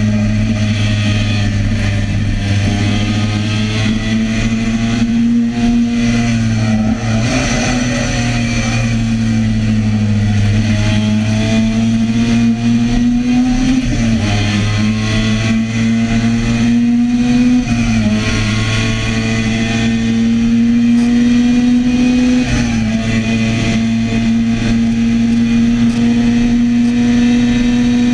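Classic racing motorcycle engine heard onboard at speed, its note climbing steadily and then falling away sharply four or five times, under a steady rush of wind noise.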